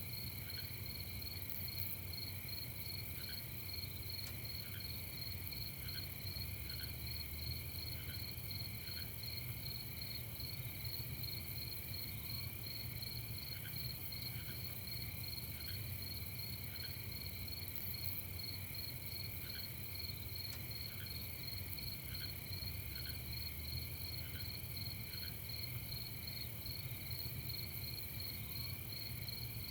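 Night chorus of crickets chirping steadily, several overlapping pulsing trills at different pitches. A quieter, lower short call repeats in pairs every second or two, with a faint low rumble beneath.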